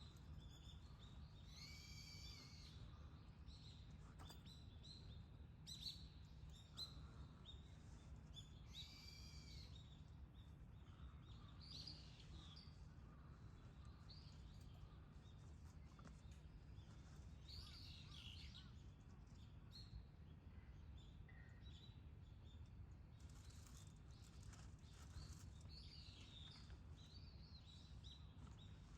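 Faint outdoor morning ambience: wild birds giving single arched calls every few seconds, over a steady low hum.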